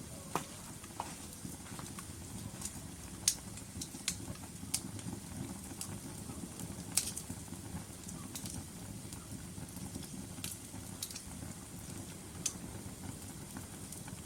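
Log fire in a fireplace burning with a steady low rumble and irregular sharp crackles and pops, the loudest pops about three seconds in and again about seven seconds in.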